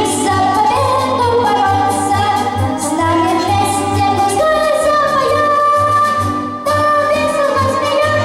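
A solo voice singing long held notes of a song over an orchestral backing track with a steady, regular bass beat.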